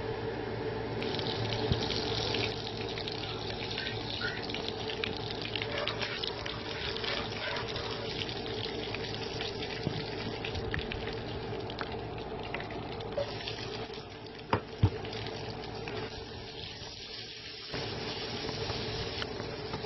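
Butter sizzling and foaming in a hot pan, with scattered crackles over a steady hum; near the end sliced onions fry in the fat. Two sharp knocks stand out about three quarters of the way in.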